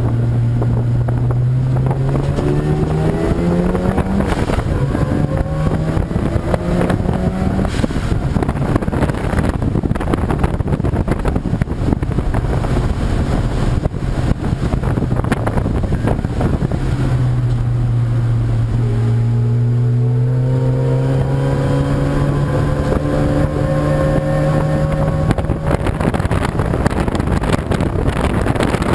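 Race car engines accelerating, the pitch climbing in steps through the gears early on and again in a long rising pull about two-thirds of the way through, over heavy wind noise on the microphone.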